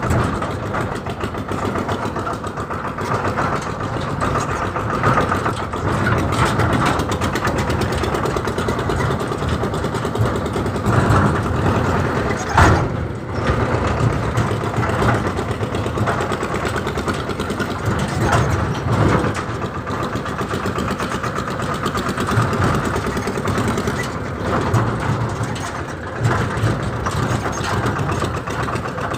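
Massey Ferguson tractor's diesel engine running steadily, with one brief sharper, louder sound about 13 seconds in.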